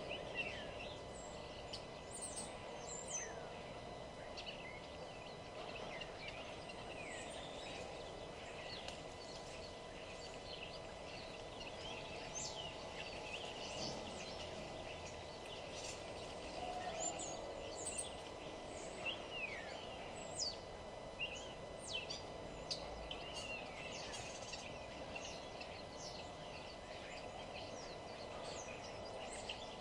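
Birds chirping and singing in many short, quick notes all through, over a steady low background hum.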